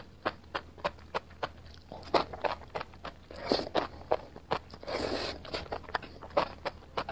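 Close-up chewing of enoki mushrooms in spicy sauce, a quick run of wet, crunchy mouth clicks. The strands are slurped in twice, briefly about three and a half seconds in and for longer about five seconds in.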